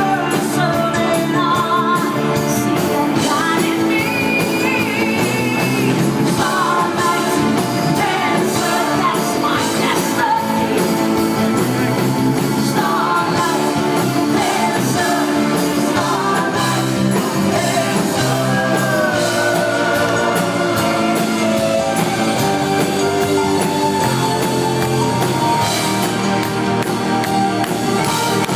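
Live rock band performing with sung vocals, steady and loud, in a large hall.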